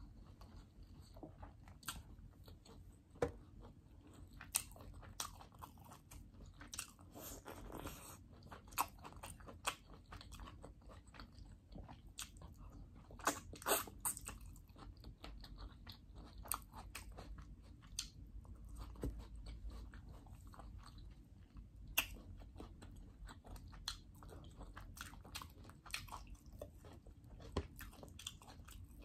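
A person chewing and biting mouthfuls of chicken fried rice eaten by hand, heard close up, with irregular sharp mouth clicks throughout.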